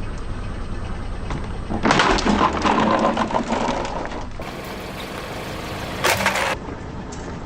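Car engine running low and steady while a tyre rolls over and crushes something brittle. A dense crackling crunch starts about two seconds in and lasts about two seconds. A second, short crunch comes just after six seconds.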